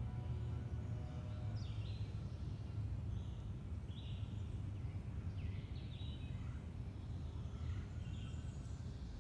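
Birds chirping in short, high calls every second or so over a steady low rumble.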